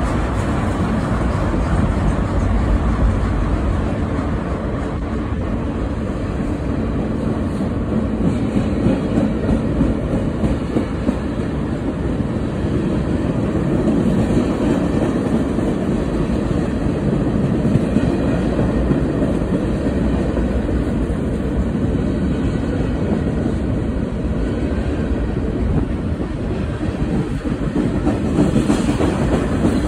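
Freight train of tank cars and covered hopper cars rolling past, its steel wheels running steadily on the rails, with a few faint knocks along the way.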